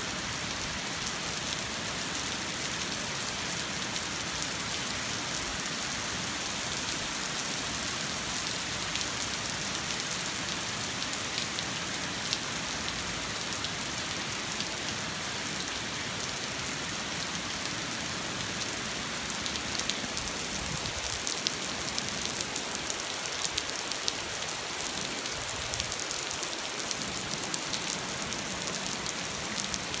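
Steady rain pattering on a street, with single drops ticking more sharply in the second half.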